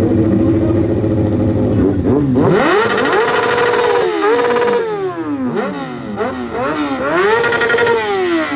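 Motorcycle engine revved hard: after a low, steady running start it climbs sharply and is held high for about two seconds, drops, is blipped several times, then is held high again and falls away near the end.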